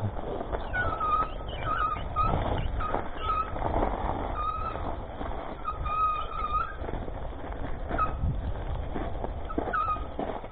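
Bicycle brakes squealing in short, repeated squeaks at a steady pitch while the bike runs down a rough off-road hill, over a constant rumble of tyres on rough ground and wind.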